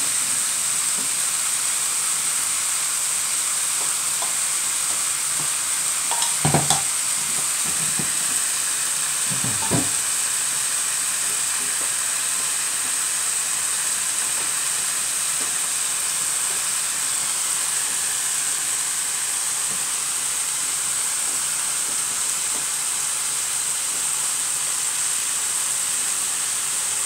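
Chicken and carrots sizzling in a frying pan, a steady hiss, with a few short knocks about six and ten seconds in.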